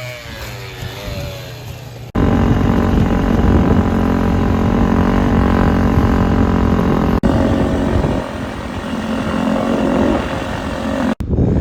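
Dirt bike engines running loud and steady, the sound switching abruptly about two seconds in, again near the middle and again near the end.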